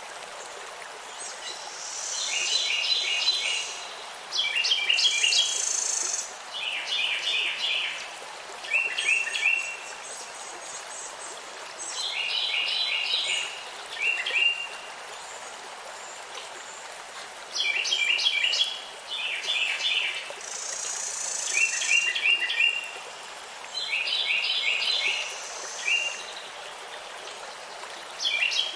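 Songbirds singing: short phrases of quick repeated chirping notes, every second or two, over a steady even rush of background noise.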